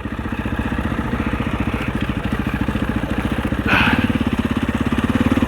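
Husaberg 650 single-cylinder four-stroke enduro bike running as it is ridden, with a steady beat of exhaust pulses. About two-thirds of the way through there is a brief rush of noise and the engine gets a little louder.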